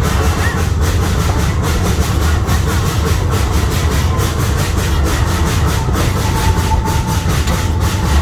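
Zoo train running along its track, heard aboard a passenger car: a steady, loud rumble of the wheels and car, with a rhythmic light clicking from the rails.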